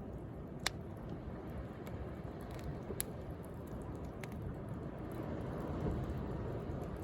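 Wood bonfire crackling with a few sharp pops, over the steady wash of sea waves that swells a little near the end.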